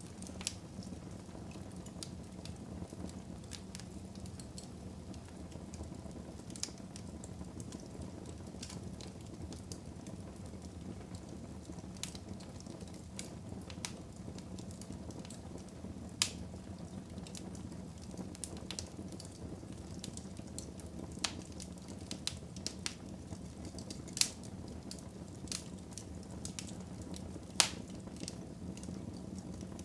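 Fire in a fireplace crackling: irregular sharp pops over a steady low rumble, a few pops much louder than the rest.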